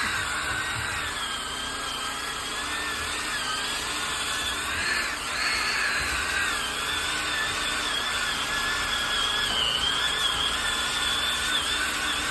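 Electric power sander running against log-wall wood: a steady whine whose pitch wavers as the sander is pressed into the wood, with a short dip about five seconds in.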